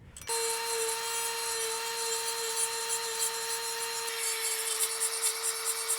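Cordless rotary grinder with a diamond bit, mounted in an EzzDoo chain grinder, sharpening the cutters of a chainsaw chain. It starts a fraction of a second in and runs at a steady high pitch with a gritty hiss, regrinding teeth that had been hand-filed too lightly and dulled.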